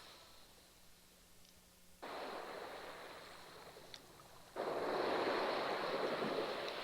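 Steady rushing noise, like surf or wind, that cuts in abruptly about two seconds in and jumps louder at about four and a half seconds.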